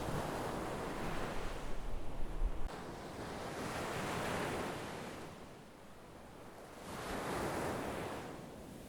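Sea waves breaking and washing up, rising and falling in three swells. Low wind rumble on the microphone runs under the first wave and stops abruptly a third of the way in.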